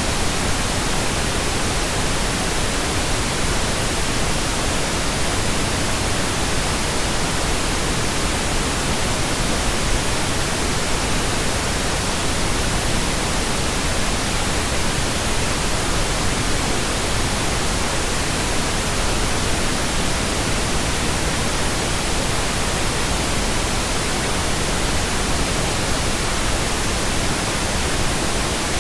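Computer-generated pink noise: a steady, even hiss spread across all pitches, unchanging throughout.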